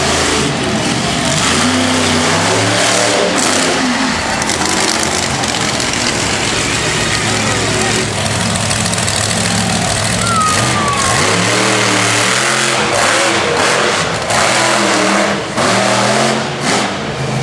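Monster truck engine revving hard again and again, its pitch rising and falling, over a loud noisy bed. A few sharp knocks come near the end.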